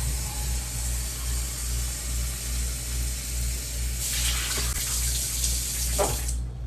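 Kitchen tap running into a sink in a steady rush of water, louder for a couple of seconds near the end and then shut off. A low hum runs underneath.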